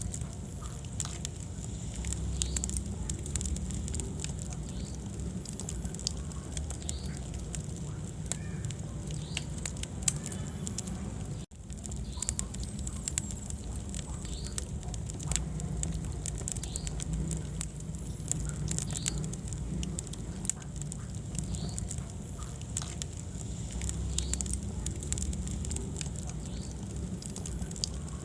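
Wood fire crackling with many small pops over a low rumble of flames. The sound cuts out for an instant about eleven seconds in.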